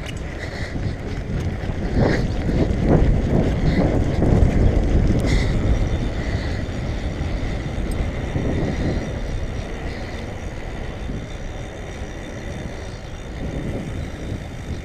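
Wind rushing over the microphone while riding a bike fast down a road: a low buffeting rumble, loudest from about two to six seconds in, then easing.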